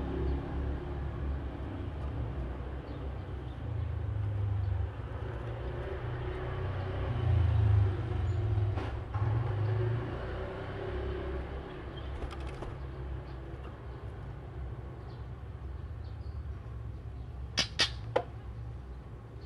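Low rumble of a passing vehicle, loudest about four to ten seconds in, then fading. Near the end come three sharp, very short chips or clicks in quick succession.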